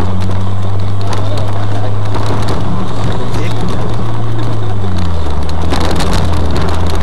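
Vehicle engine droning low and steady, heard from inside the cabin, its pitch dropping about five seconds in. Rattles and knocks from driving over a rough dirt track, with a cluster of them near the end.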